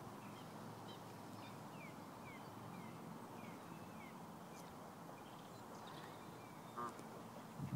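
Faint outdoor ambience: small birds giving a string of short, falling chirps over a steady low hiss, with a brief pitched sound about seven seconds in.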